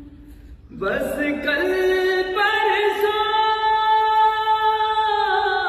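A high voice singing unaccompanied: about a second in it comes in with a short upward slide, then holds one long steady note for about four seconds before dropping to a lower note near the end.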